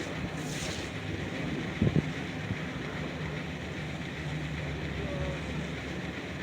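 Steady rumbling background noise, with two short knocks just under two seconds in.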